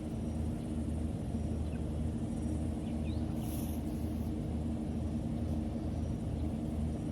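Steady low mechanical hum with a faint regular pulsing, and a few faint short bird chirps about halfway through.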